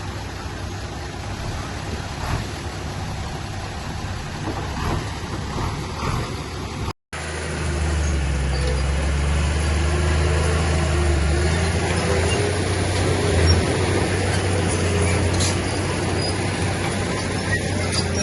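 Heavy earthmoving machine's engine running. The sound drops out for a moment about seven seconds in and comes back louder, as a steady low drone.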